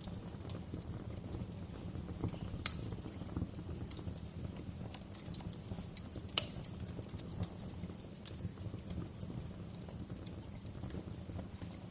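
Wood fire burning in a fireplace: a steady low rumble of flames with scattered irregular crackles and pops, two sharper pops standing out, one near 3 seconds in and one a little past 6 seconds.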